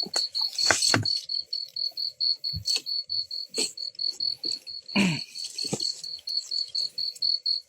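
A night insect calling in a steady, high pulsed trill of about six pulses a second, with a few short rustles and knocks of movement in leaf litter.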